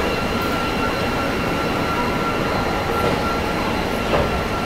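Running noise of the 22429 Delhi–Pathankot Express under way: a steady rumble with a thin, steady high whine over it. A small knock comes about four seconds in.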